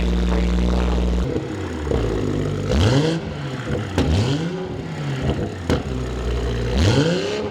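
BMW B58 turbocharged inline-six, breathing through a newly fitted cold air intake, runs steadily, then from about a second in is blipped up and down several times in quick rises and falls of pitch. Two sharp clicks come between the blips.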